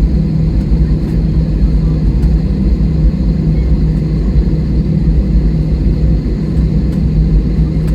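Steady low drone inside an airliner cabin, from the jet engines at idle and the cabin air system, with a faint steady high whine.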